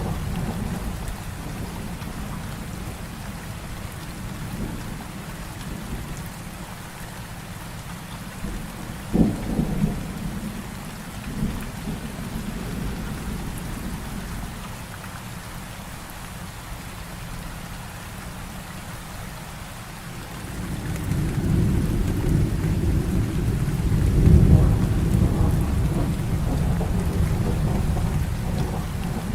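Heavy rain falling steadily with thunder: a sharp crack about a third of the way in, then a long low rumble that builds from about two-thirds in and rolls on.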